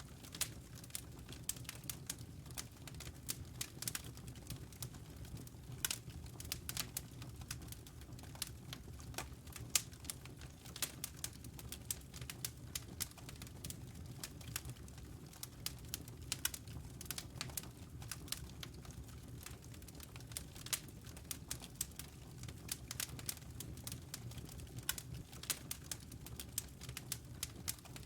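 Wood fire crackling in a fireplace: frequent irregular snaps and pops of burning logs over a low steady rumble.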